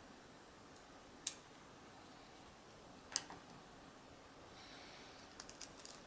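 Small sharp clicks of tools and small camera parts being handled during a teardown: two separate clicks about two seconds apart, then a quick run of faint ticks near the end.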